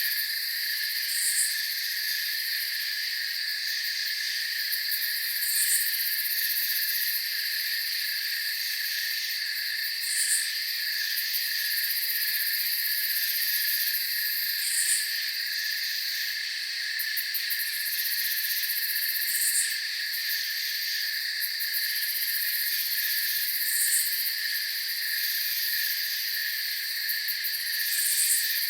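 Steady night chorus of crickets, with a short high chirp repeating about every four and a half seconds.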